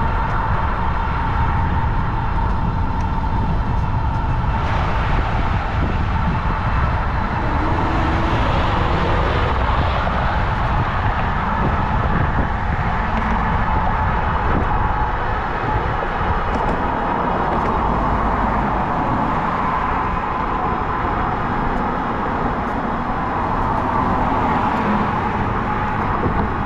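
Riding noise from an electric bike on the move: wind buffeting the microphone and road noise, with a faint steady whine underneath.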